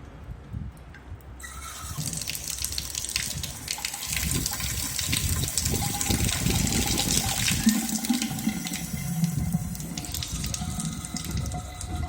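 Water tap turned on about a second and a half in and running, with a thin high-pitched whine through the rush of water. The uploader suspects an aged, hardened rubber washer or a faulty ceramic valve inside the faucet.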